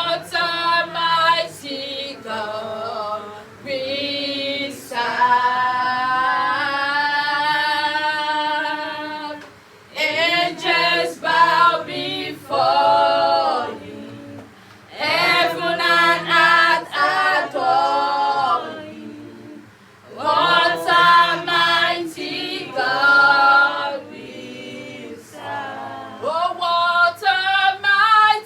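Choir of female and male voices singing a worship song in phrases a few seconds long, with short breaths between them.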